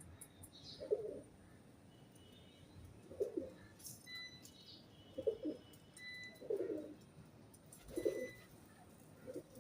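A pigeon cooing over and over, about six low coos one to two seconds apart, with faint short high chirps between them.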